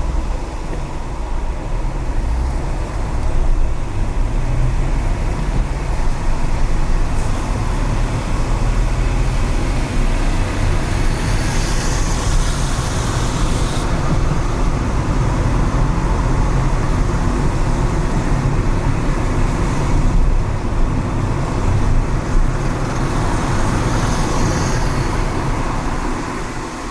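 A car driving on wet city streets: steady low road and engine rumble with tyre noise, and two stretches of louder hiss, about eleven seconds in and again near the end.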